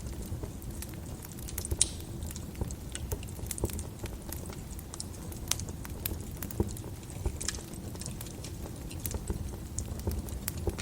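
Wood fire burning in a fireplace: irregular crackles and sharp pops of burning logs over a low, steady rumble of flames.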